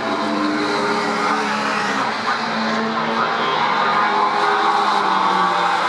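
Several historic touring race cars running at speed on the circuit, their high-revving engine notes overlapping and rising and falling as they pass.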